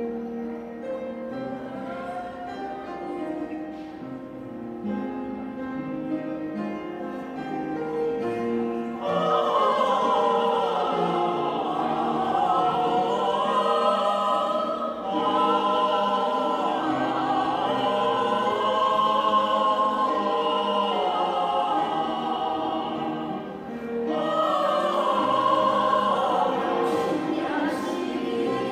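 Choral music: a few seconds of instrumental accompaniment with held notes, then a choir comes in singing about nine seconds in and carries on.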